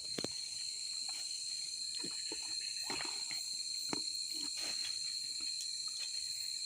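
Steady, high-pitched insect chorus of the forest, with scattered light clicks and knocks of plates and spoons being handled.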